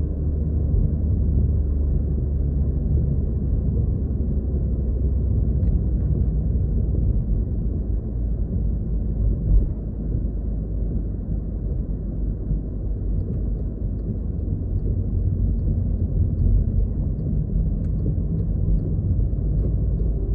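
Steady low rumble of a car driving, heard inside the cabin: tyre and engine drone, with a brief bump about nine and a half seconds in.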